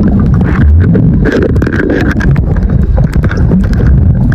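Muffled water sloshing and knocking around a camera in the sea, heavy and deep, with many irregular clicks.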